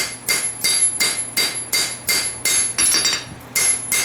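Hammer blows on hot steel over an anvil, about three a second, each with a bright ring, as a farrier rasp is forged into a blade. The blows stop right at the end, over a steady low hum.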